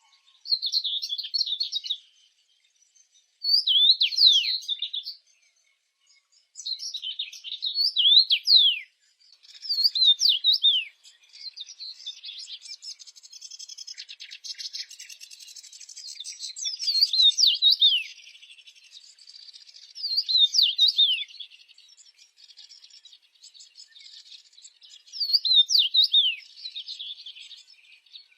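Songbird singing repeated short phrases of quick, high chirps and steeply falling whistles, with pauses between them. From about halfway, a softer continuous twittering fills the gaps.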